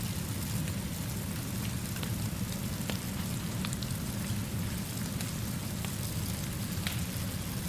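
Steady rainfall with an even low rumble underneath and scattered light ticks of individual drops.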